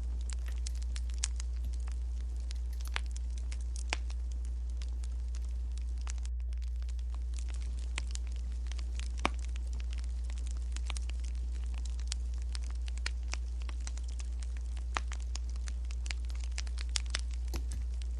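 Wood fire crackling: irregular sharp pops and snaps, several a second at times, over a steady low hum.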